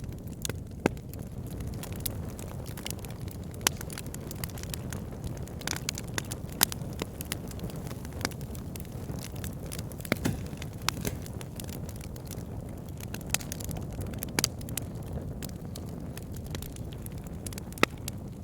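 Wood fire burning in a fireplace: a steady low rumble of flame with frequent irregular sharp crackles and pops from the burning wood.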